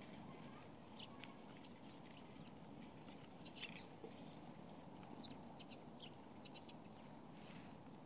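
Faint, scattered short high chirps and call notes of small birds around a winter feeder, over a low steady background hum.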